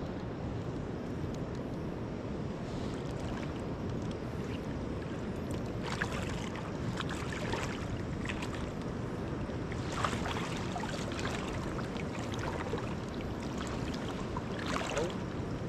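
Steady wind and moving river water, with a few faint brief clicks or knocks about six, ten and fifteen seconds in.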